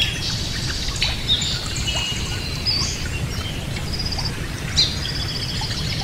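Birds chirping and trilling in many short, overlapping high calls, over a steady low background noise.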